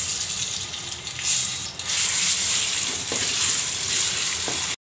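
Ginger-garlic paste sizzling in hot oil in a kadai as it is stirred with a wooden spatula. The frying hiss dips briefly about a second in, swells again from about two seconds, and cuts off suddenly at the end.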